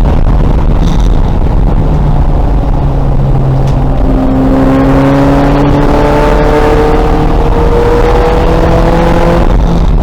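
2000 VW Golf race car's engine pulling hard under a loud, steady rumble of road and wind noise. From about four seconds in, its note climbs slowly as it accelerates through a gear, then drops away near the end.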